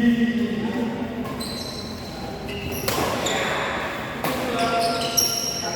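Badminton being played: sharp hits about three seconds in and again a little over a second later, among short high squeaks of shoes on the court floor, with voices murmuring.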